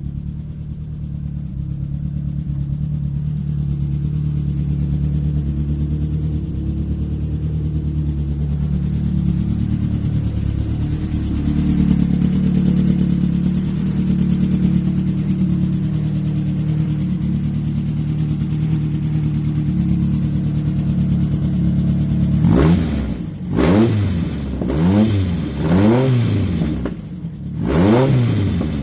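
Renault Clio 16S four-cylinder 16-valve engine in a Renault 8 prototype, running steadily while being brought back into service after a restart. Near the end the throttle is blipped about five times in quick succession, the revs rising and falling sharply each time.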